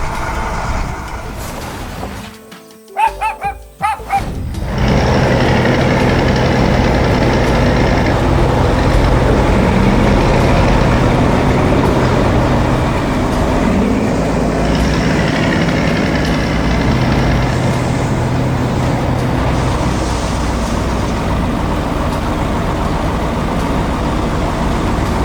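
Heavy construction-vehicle engine sounds running steadily, mixed with background music. A few short pitched blips come about three seconds in, before the engine noise sets in.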